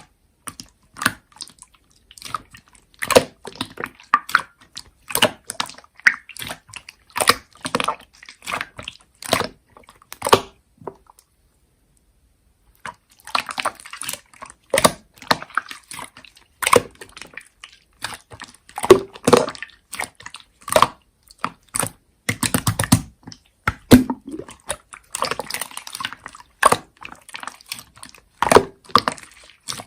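Slime being squished and pressed by hand: a fast run of wet clicks and pops, with a break of about two seconds partway through.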